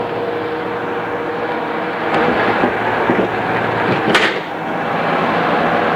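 Inside a JR East 211 series electric train as it runs: a steady rumble with a constant tone through it, getting somewhat louder about two seconds in, with a single sharp knock about four seconds in. The sound comes from an old cassette-tape recording.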